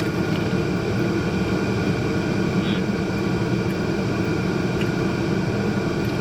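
Steady low rumble and hum of an idling vehicle, with a few faint steady tones above it and a couple of faint brief ticks.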